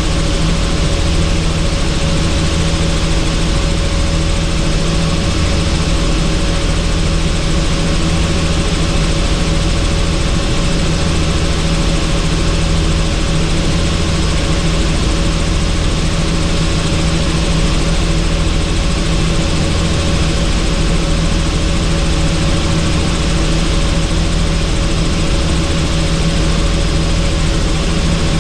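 Helicopter in flight with the doors off: a steady drone from rotor and engine with several low tones, under an even rush of wind noise.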